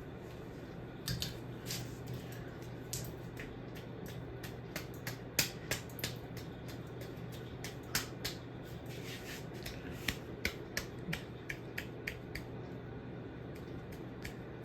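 Ceiling fan running with a steady low hum, with many sharp, irregular clicks and ticks scattered through it.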